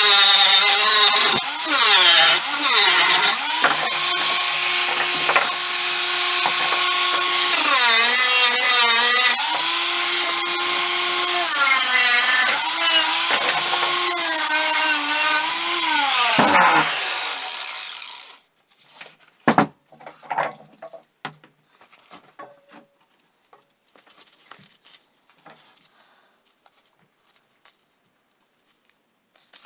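Small wood chipper running at full speed, its pitch dipping and recovering several times as it takes wood, then switched off about seventeen seconds in and winding down. A few separate knocks and light clicks follow.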